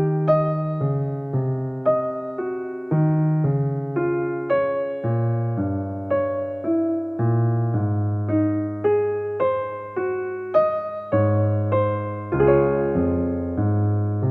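Slow, gentle electric piano music: a steady run of soft single notes with sustained low chords underneath, several notes a second, each fading after it is struck.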